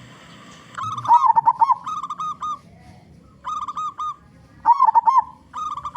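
Zebra dove (local perkutut) cooing: phrases of quick, rolling notes, starting about a second in and repeating about four times with short gaps.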